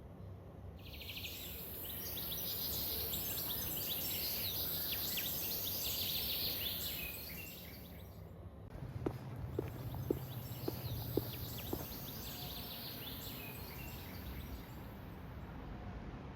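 Outdoor ambience of many small birds chirping and twittering over a steady high hiss. A handful of short, sharp taps sound about halfway through.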